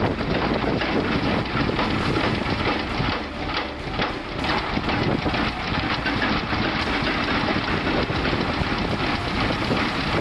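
Large old Enterprise DSG-36 diesel engine running, a deep sound with a mechanical rhythm of firing strokes.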